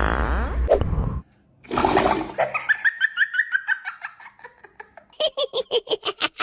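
A quick string of comedy sound effects: a fast buzzing electronic sound that cuts off about a second in, a short burst, a run of quick high chirps, then rapid laughter near the end.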